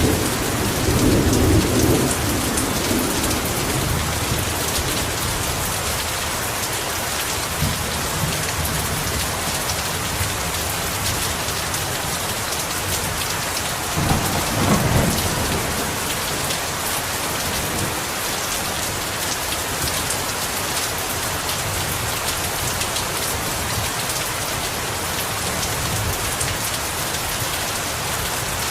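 Heavy rain falling steadily, with low rumbles of thunder at the start and again about halfway through.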